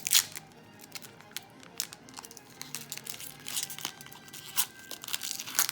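Trading cards and foil pack wrappers being handled: irregular crisp flicks, snaps and crinkles as cards are slid and flipped through, the sharpest snap just after the start.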